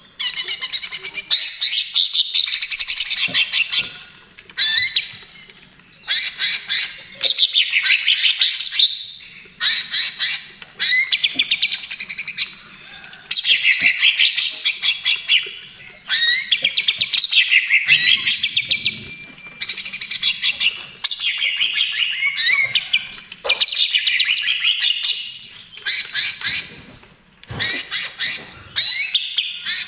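Cucak ijo (greater green leafbird) singing almost without pause in the fast 'trotol' style: quick runs of rapidly repeated high notes, phrase after phrase, with short breaks between them.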